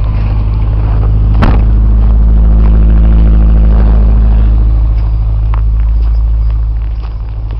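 1989 Ford Probe's engine running steadily just after a cold start. It swells a little over the first few seconds and then eases, with one sharp click about a second and a half in.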